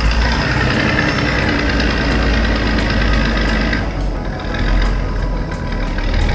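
Heavy vehicle engine sound effect running steadily with a low rumble; a higher, noisier layer over it drops away about four seconds in.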